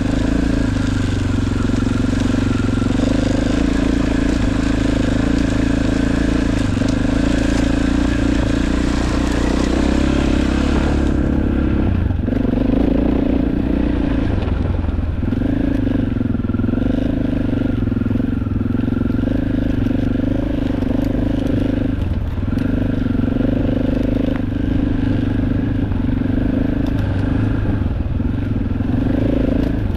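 Dirt bike engine running while being ridden, with a steady note and a few brief drops in engine pitch in the second half as the throttle eases. A steady hiss over it cuts off suddenly about a third of the way through.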